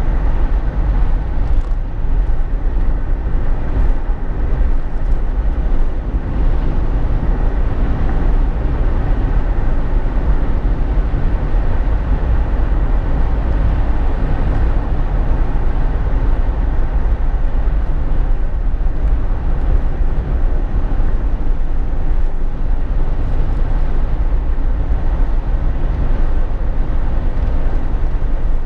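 Steady cabin noise of a Jeep Wrangler JK on the move: a deep, constant low rumble with road and wind noise above it, unchanging throughout.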